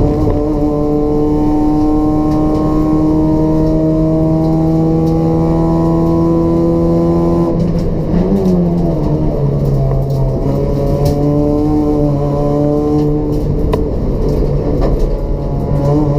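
Race-built Toyota Etios's 1.5-litre four-cylinder petrol engine with a free-flow exhaust, pulling under load with its pitch climbing slowly for about seven seconds. Then the pitch drops sharply with a brief rise and holds lower, with a few short clicks near the end.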